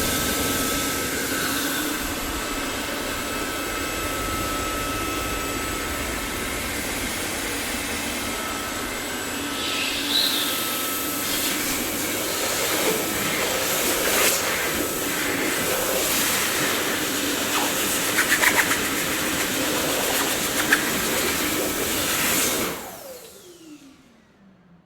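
Dyson vacuum cleaner running steadily, with a few short knocks partway through. Near the end it cuts off and its motor whine falls in pitch as it spins down.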